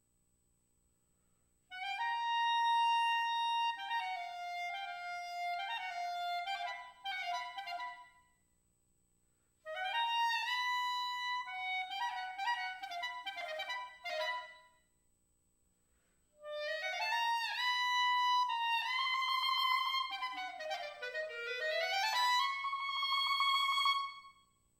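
Solo clarinet playing three short phrases of held high notes and quick runs, each separated by a pause of a second or two. The last phrase dips low and climbs back up to a long held high note.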